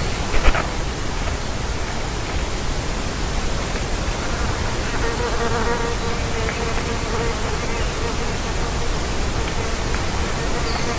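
A flying insect buzzing close by with a steady hum, starting about five seconds in, over a constant outdoor hiss. A couple of sharp knocks come about half a second in.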